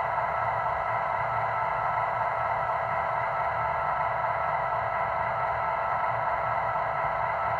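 MTH model NW2 diesel switcher's sound system running a steady diesel engine idle: an even mechanical hum that holds unchanged throughout.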